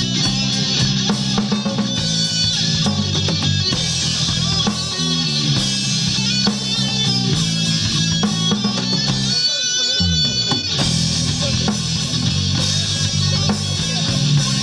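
Rock band playing, with guitars over bass and drum kit; the low end drops out briefly about ten seconds in.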